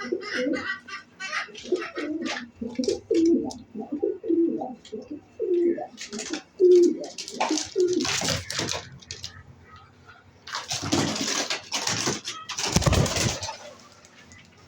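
A bird's low, repeated calls, about two a second, for roughly the first eight seconds, broken up by two stretches of loud rustling noise, the longer one near the end.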